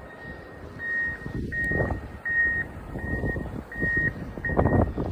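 A vehicle's reversing alarm beeping: a single high tone repeating about every 0.7 seconds, starting about a second in, over a low rumble.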